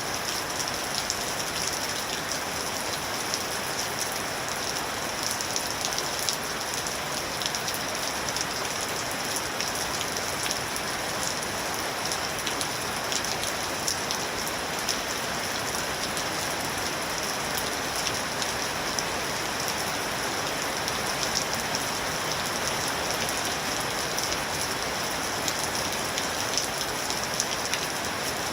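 Steady rain falling, a continuous hiss with many small drop ticks spattering on a surface.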